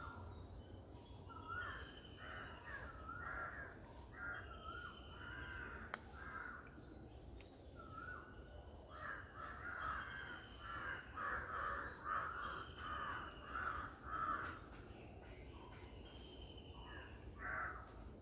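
Birds calling: harsh, caw-like calls in short runs, busiest in the middle of the stretch. A short, higher call repeats every couple of seconds.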